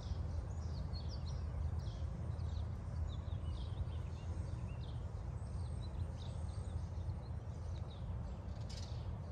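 Small songbirds chirping and singing again and again in the background, over a steady low rumble.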